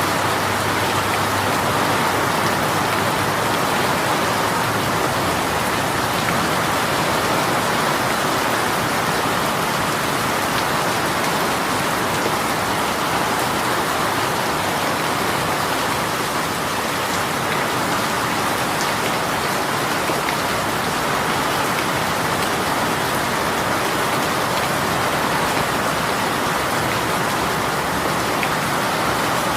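Rain shower falling steadily, an even, unbroken patter of drops on surfaces.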